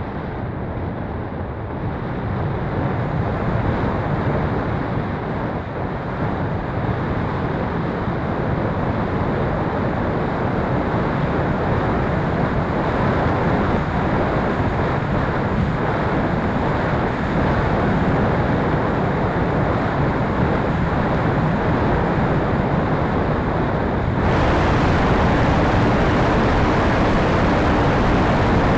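Steady rushing wind noise buffeting the microphone, with no tones or clicks. About 24 seconds in, it turns brighter and hissier.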